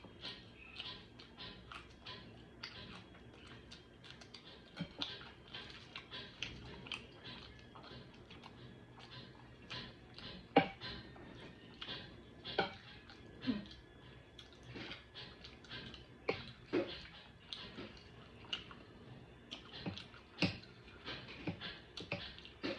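Close-miked chewing and lip-smacking as a person eats chicken tikka masala, a run of irregular wet clicks and smacks with a few louder ones.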